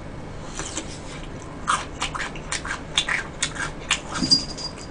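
A person chewing a mouthful of food close to the microphone: irregular wet clicks and smacks of the mouth, a few per second.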